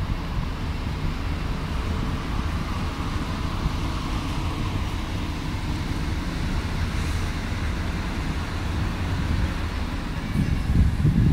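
Double-deck regional push-pull train rolling into the station on the far track, a steady rumble of wheels and running gear. Louder low gusts of wind buffet the microphone near the end.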